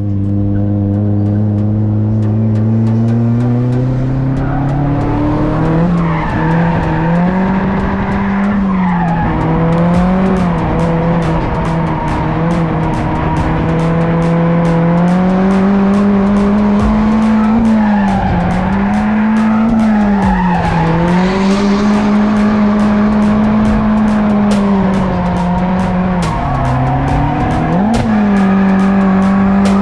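Drift car's engine revving up over the first few seconds, then held at high revs with repeated dips and recoveries in pitch as the car slides through the course, with tires squealing and skidding throughout.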